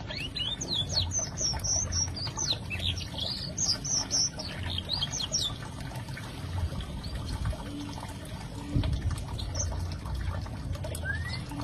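Canary singing a quick run of high chirps and trills for about five seconds, then only a few scattered notes, over a steady low rushing noise.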